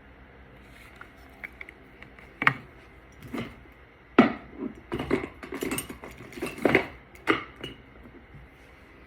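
Irregular clicks and light knocks of small hard makeup containers and tools being picked up, opened and set down, about a dozen over several seconds, the sharpest about two and a half and four seconds in.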